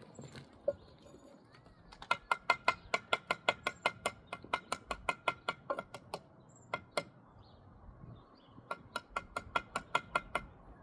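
A steel mason's trowel taps rapidly on brick and mortar, about five sharp taps a second with a slight ring. There are two runs of tapping with a short pause between them.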